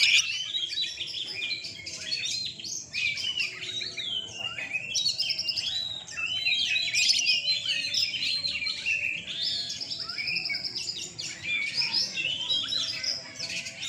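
Several oriental magpie-robins (kacer) singing at once: dense, unbroken, overlapping whistles, trills and chatter.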